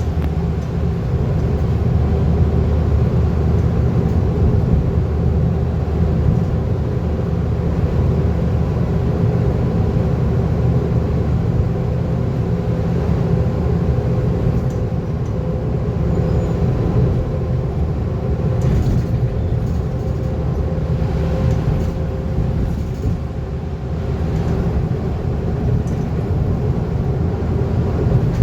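Scania N230UD double-decker bus heard from on board: its five-cylinder diesel engine running steadily under way, with road rumble and a steady whine above it. A few brief rattles come in past the middle.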